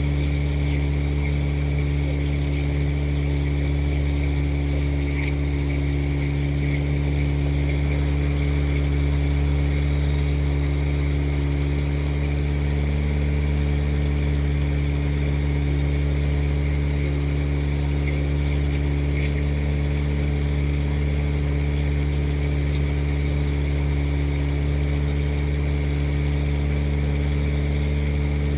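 Boat engine running at a steady speed, a constant low-pitched drone with no change in pitch or level.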